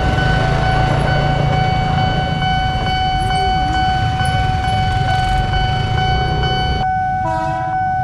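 Commuter electric train rumbling over a level crossing and fading as it clears, under the crossing's electronic warning alarm sounding steadily. Near the end there is a brief cut to another crossing, with its alarm sounding and a short horn blast.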